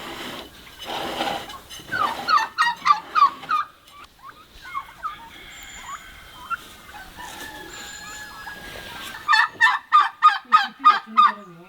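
Poultry calling in two fast runs of short repeated notes, one about two seconds in and a louder one near the end.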